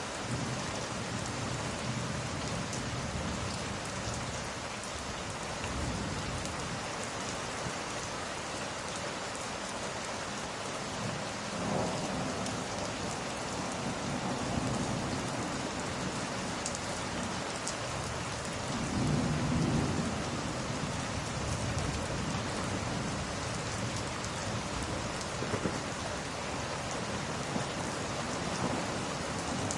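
Steady rain falling, with low rumbles of thunder rolling in about twelve seconds in, again for a couple of seconds around twenty seconds, and building near the end.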